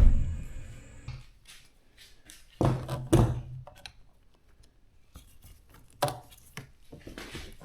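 A handful of separate knocks and thuds: one right at the start, a pair close together about two and a half seconds later, and another about six seconds in, with quiet handling noise between them.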